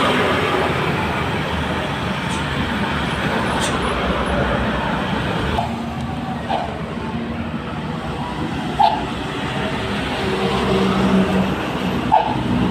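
Road traffic: a steady rush of passing vehicles, then engines running low and steady from about halfway through, with a few short higher tones over them.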